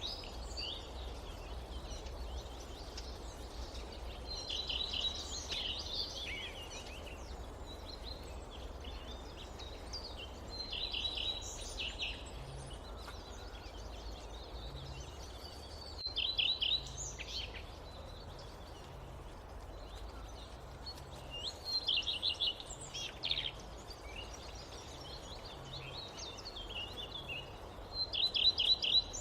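A songbird repeats the same phrase about every six seconds: a quick stuttered run of high notes, then a short twitter. Under it runs a steady low background rumble.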